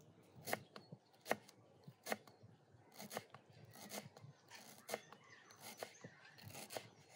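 A series of short, sharp knocks at a fairly even pace, about one a second.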